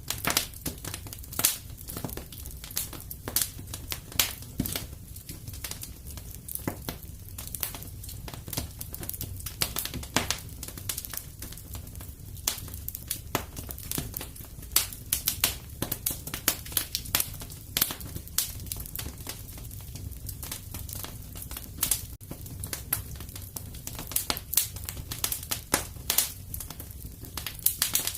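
Wood fire crackling and popping in a fireplace: irregular sharp snaps over a soft, steady low rumble of the flames.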